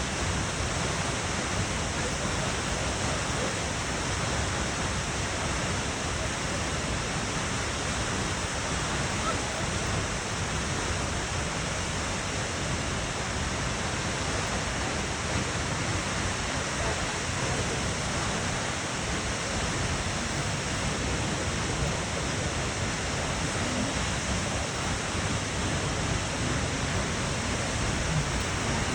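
Twin waterfall pouring steadily: an even, unbroken rush of falling water.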